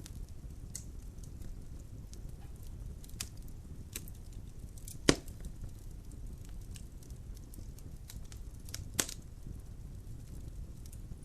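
Logs burning in a fireplace: a steady low rumble of the fire with scattered crackles and sharp pops, the loudest pop about five seconds in and another near nine seconds.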